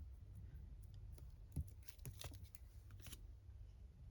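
Faint handling of paper scraps: a few soft ticks and rustles over a low steady hum.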